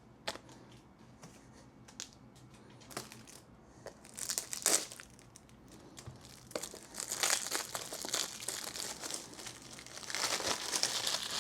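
Plastic packaging crinkling and tearing as it is opened by hand. The crinkling comes in bursts, first about four seconds in and again from about seven seconds on.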